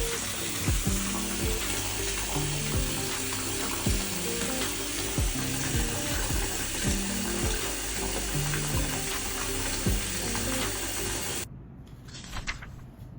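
Steady hiss of running water, under soft background music of low held notes with a few knocks; the water sound cuts off abruptly near the end.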